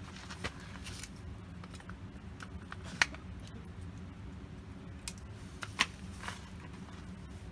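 Campfire wood crackling, with scattered sharp pops at irregular moments, the loudest about three seconds in and another near six seconds.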